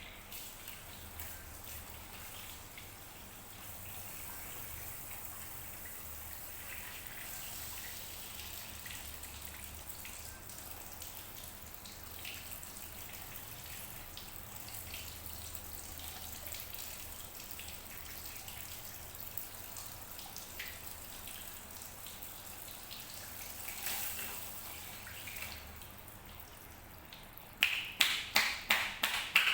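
Steady hiss of running water with faint scattered drips. Near the end, a fast run of sharp hand slaps starts, about four a second, typical of percussive massage tapping.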